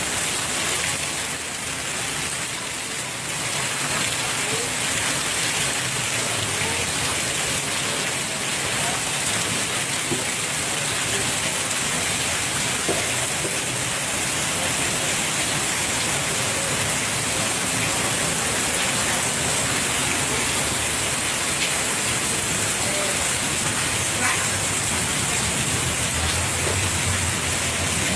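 Heavy rain falling steadily, a continuous hiss of rain on surfaces.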